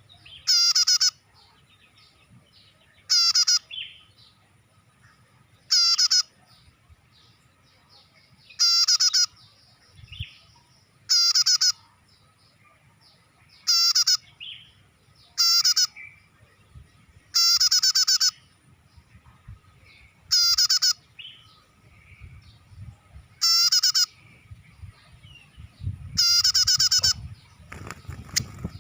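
Prenjak (prinia) lure call: loud, rapid chattering bursts of about half a second to a second, repeating roughly every two and a half seconds. Fainter bird chirps come between them.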